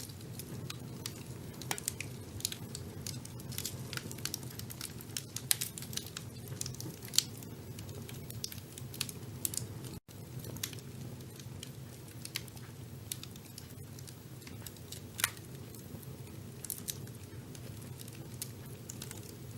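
Wood fire burning in a fireplace, crackling with frequent irregular sharp pops and snaps over a steady low rumble of the flames. The sound drops out for an instant about halfway through.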